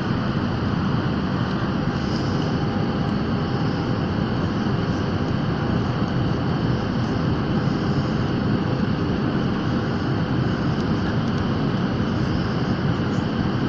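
Steady drone of an airplane in flight, engine and airflow noise with a faint steady hum running through it.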